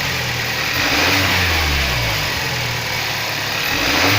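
Kia Sorento's rebuilt 2.0 T-GDI (G4KH) turbocharged four-cylinder engine being revved by throttle blips: the revs die down over a couple of seconds, then climb again near the end. It runs smoothly with no rod knock, after a connecting-rod repair.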